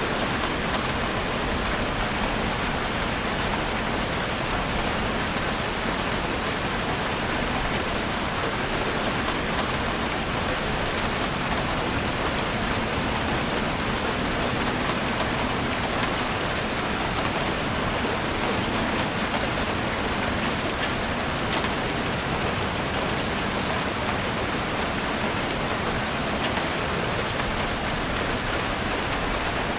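Heavy rain falling steadily on a roof: a dense, even hiss of rain, dotted with many small drop ticks.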